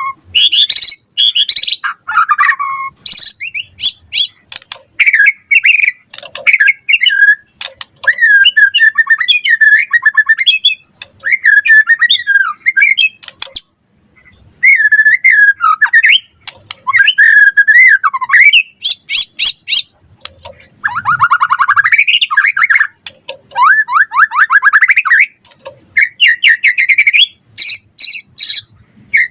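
White-rumped shama singing a long, varied song of whistled phrases, fast trills and harsh notes, in bursts with short pauses between them.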